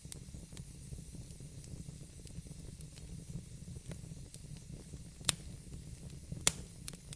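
Wood fire burning in a fireplace: a steady low rumble of flames with faint hiss and scattered small crackles, and two louder sharp pops near the end.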